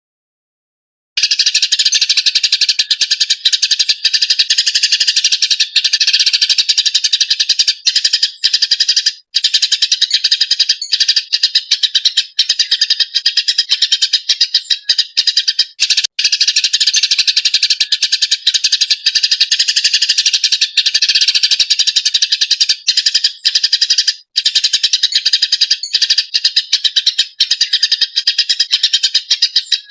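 Eurasian tree sparrow (burung gereja) chirping rapidly and almost without pause, a dense high-pitched chatter of agitated calls, starting about a second in.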